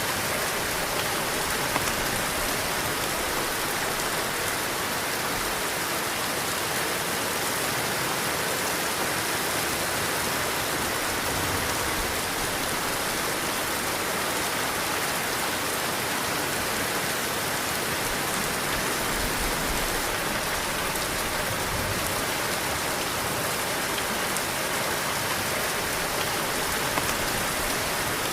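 Heavy rain falling steadily, a dense even hiss, with low swells of wind now and then and the odd louder drop striking a surface.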